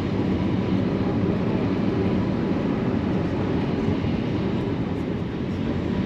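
Ferry engines running with a steady, loud drone, heard from inside the passenger cabin.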